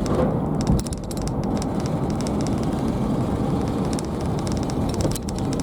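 A car being driven: steady road and running noise, with scattered faint clicks and crackles in the upper range.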